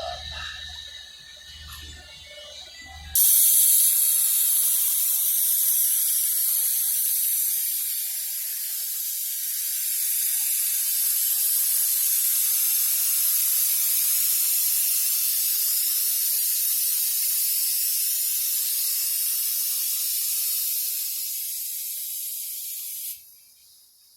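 Paint spray gun spraying paint in one continuous pass of about twenty seconds: a steady, loud hiss that starts abruptly about three seconds in and cuts off just before the end.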